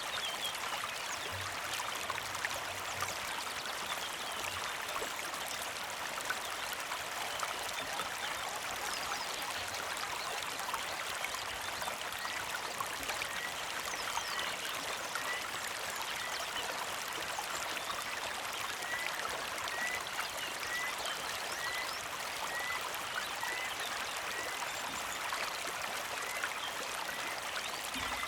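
A small creek flowing and trickling steadily. From about halfway through, a bird repeats one short chirp roughly twice a second.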